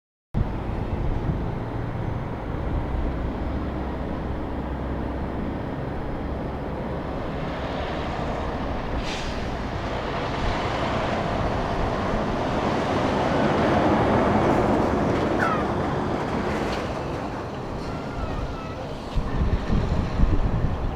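Semi truck driving past, its engine and tyre noise swelling to a peak about two-thirds through and then easing off, with wind on the microphone.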